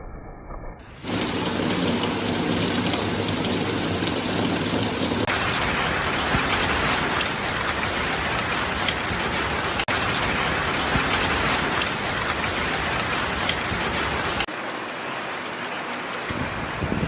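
Steady rain hissing, with scattered drops ticking, pieced together from several recordings. A muffled stretch gives way about a second in to loud, full rain, which turns brighter around five seconds in and loses its low rumble near the end.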